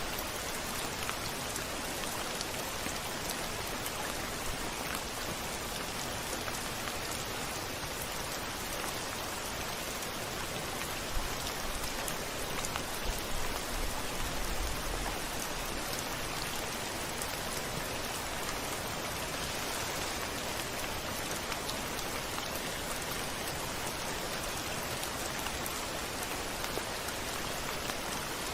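Steady rain falling, an even continuous patter of drops, with a slight low rumble about halfway through.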